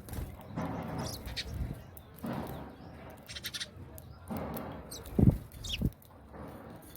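Small birds squabbling as they feed: repeated bursts of wing flutter with a few short high chirps, and two loud thumps a little past five seconds in.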